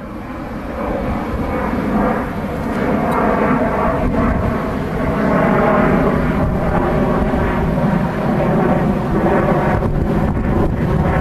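EP09 electric locomotive hauling an express passenger train through the station: a loud, steady rumble of the passing train that builds over the first couple of seconds and then holds.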